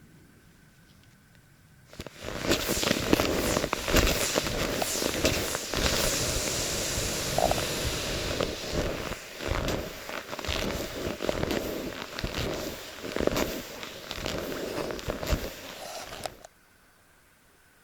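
Loud crackling and rustling right at the microphone, full of uneven knocks, starting suddenly about two seconds in and cutting off abruptly near the end.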